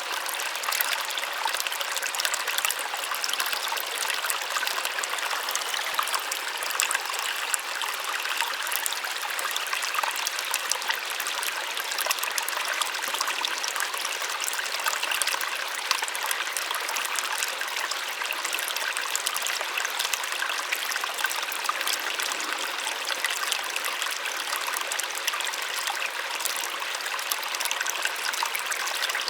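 Small waterfall splashing steadily: an even rush of falling water with fine spattering and trickling, light and without deep rumble.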